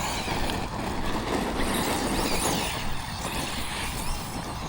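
Brushless electric motor of an Arrma Notorious 6S RC stunt truck whining as the truck is driven, the pitch rising and falling with the throttle.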